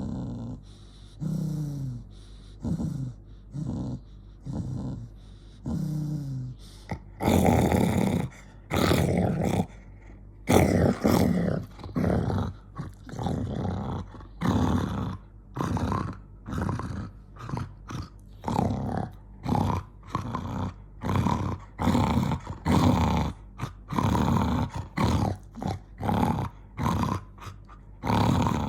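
Angry dog growling in pulses, one with each breath, a little under one and a half a second. About seven seconds in the growls turn louder and rougher and keep coming in rapid bursts.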